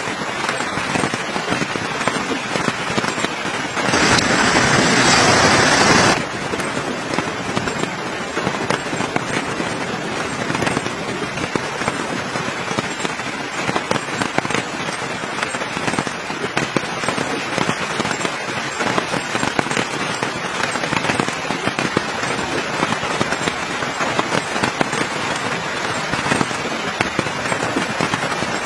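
Wood campfire crackling with dense, irregular pops. About four seconds in, a louder steady hiss rises for about two seconds, then stops suddenly.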